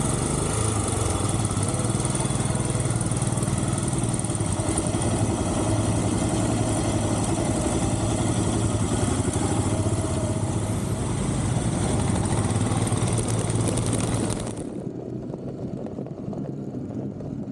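Motorcycle engine running while riding, with wind and road noise over it. About three seconds before the end the sound drops suddenly to a quieter, lower engine sound.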